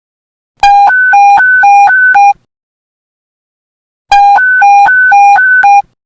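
Police panic-button alert tone: a loud two-note beep alternating quickly between a low and a high pitch, about four changes a second. It sounds in two bursts of under two seconds each, about three and a half seconds apart.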